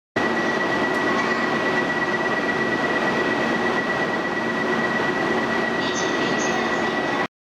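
E2 series Shinkansen train moving along the station platform: steady, loud running noise with one high, even squeal held throughout.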